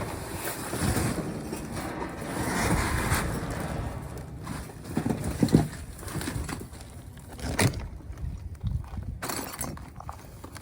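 Rummaging through dumpster contents: items rustling and clattering as they are handled and moved, with sharp knocks about five and a half and seven and a half seconds in.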